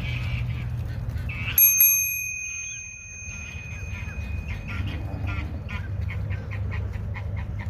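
A single bell rings once about one and a half seconds in and fades over a couple of seconds. From about halfway, a goose calls in short, quick honks, about three a second, over a steady low rumble.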